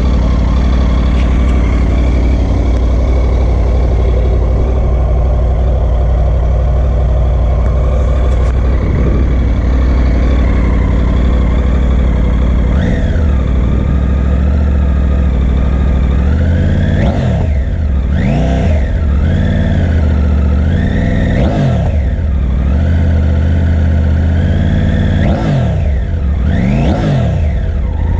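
Triumph Tiger 900 Rally Pro's 888 cc inline three-cylinder engine idling steadily, then, from about halfway, revved in a series of quick blips, the pitch rising and falling with each.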